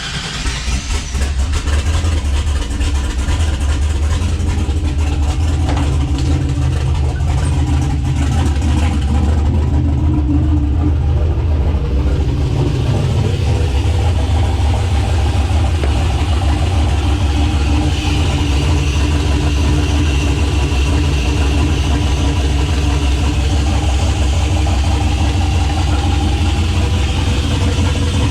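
Turbocharged 6.0-litre V8 running just after being started, its note shifting a few times as it is held on a touch of throttle. With its cam and untuned original tune, it won't idle on its own.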